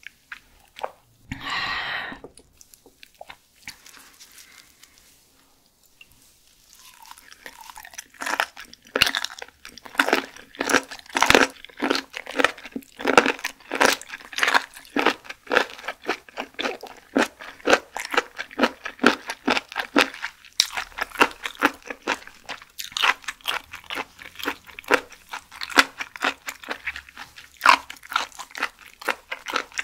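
Close-miked chewing of raw shellfish, with crisp, wet crunching clicks several times a second from about seven seconds in. A short hiss-like burst comes about a second and a half in.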